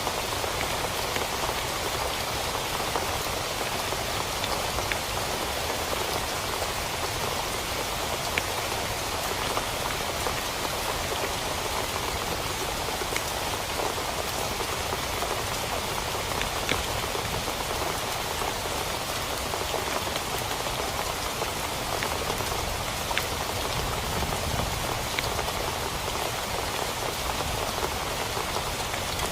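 Steady heavy rain falling on a tent, with a few single drops landing as sharp ticks.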